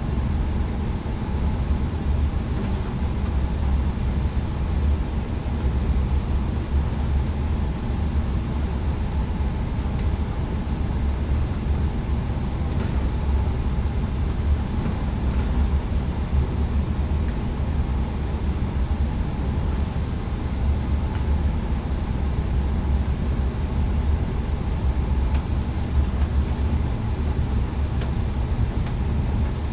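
Airbus A320neo cabin noise on the ground before takeoff: a steady low rumble of the engines running and the airframe, even throughout.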